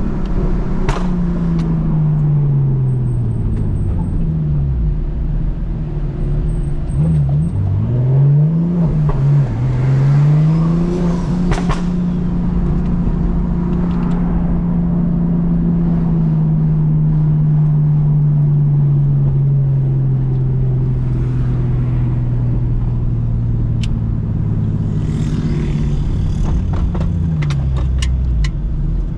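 Single-turbo BMW M2 Competition's straight-six engine with a straight-through exhaust, heard from inside the car while driving. Its pitch falls as the car slows a few seconds in, dips and rises quickly twice near ten seconds, then climbs and holds, sinking slowly for over ten seconds, with a few sharp cracks near the end.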